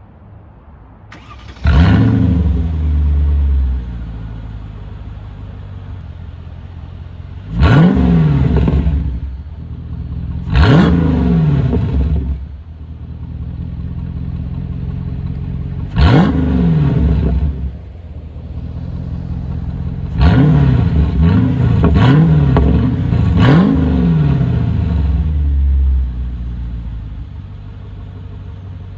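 Mercedes-Benz C55 AMG's 5.4-litre M113 V8 starting and flaring before settling to idle, then revved in six throttle blips, three of them close together near the end. The exhaust dumps just after the differential, with the secondary catalytic converters deleted and the resonator kept.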